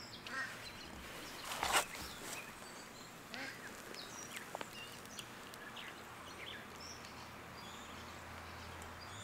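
Faint birdsong: scattered short chirps and calls from several birds, with a brief louder rustle about two seconds in.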